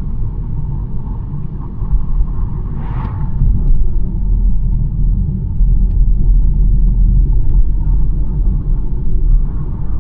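BMW 1 Series driving on the road: a steady low rumble of engine and tyre noise. About three seconds in, a brief whoosh rises and fades over it.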